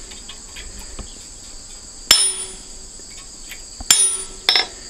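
Hammer striking a chisel held on a forged iron leaf on an anvil, cutting in the veins: three sharp ringing blows, the first about two seconds in and the last two close together near the end. A steady high insect drone carries on behind.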